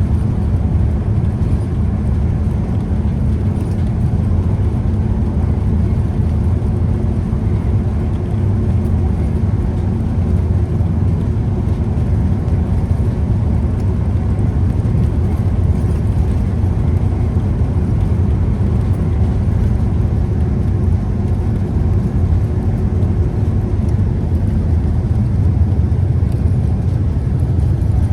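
Scania Citywide city bus on the move: a steady, low diesel engine and road rumble that holds even throughout, with no stops, revs or gear changes standing out.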